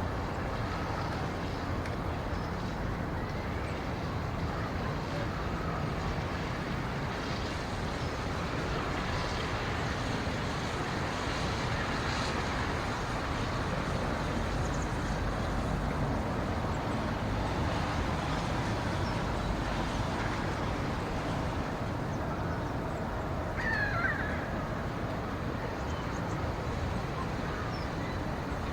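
Steady low rumbling outdoor ambience of a winter forest, with a single short bird call about three-quarters of the way through.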